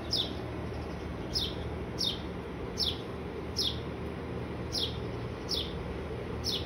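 A bird calling one short, sharply falling high note over and over, very evenly, roughly every three quarters of a second, over a steady low background rumble.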